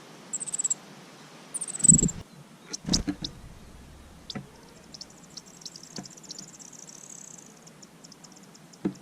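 Small bird calling with very high, thin chirps: a few short falling notes in the first two seconds, then a thin high trill from about five to seven and a half seconds. A couple of knocks with a low thump come about two and three seconds in.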